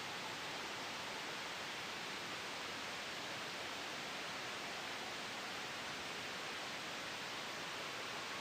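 Steady soft white noise made for sleep: an even hiss with no rise, fall or break.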